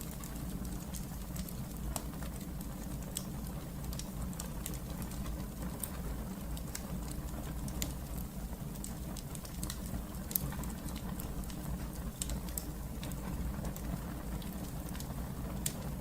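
Fireplace fire crackling: a steady low rumble of flames with many small, irregular pops and snaps throughout.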